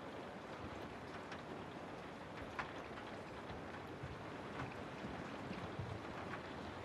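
Steady rain falling through trees, with scattered louder drops ticking among the even patter.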